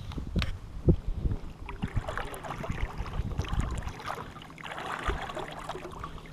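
Water splashing and sloshing in shallow river water while small baitfish are being caught, with a few sharp knocks in the first second and a half.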